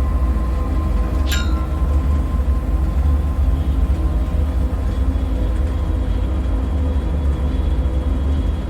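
Dark ambient drone of an eerie bunker soundscape: a deep steady rumble with faint held tones above it. About a second in, a short high sound falls quickly in pitch and settles briefly on a tone.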